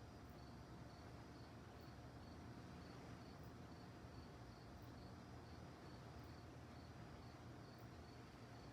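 Faint crickets chirping in an even rhythm, about three chirps a second, over a low steady rumble.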